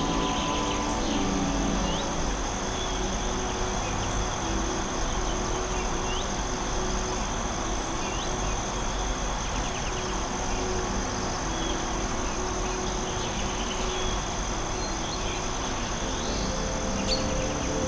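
Forest ambience: a steady high insect trill with a few short bird chirps scattered through it, over an even hiss and soft sustained low tones.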